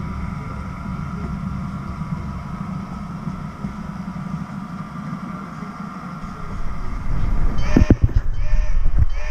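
Freight train rolling past and away on the rails, a steady low rumble with a faint steady ring. Near the end come louder sharp knocks.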